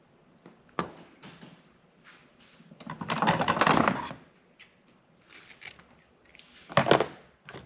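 Scissors cutting a piece of wiring-harness sleeving: a sharp click about a second in, a longer rasping cut around the middle, and another short snip near the end.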